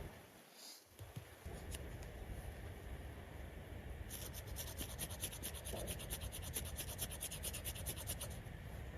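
A fast, even run of high, raspy scraping strokes, about six a second, starting about four seconds in and stopping near the end: a striker scraped along a fire-starting rod to throw sparks onto tinder. Low wind rumble on the microphone underneath.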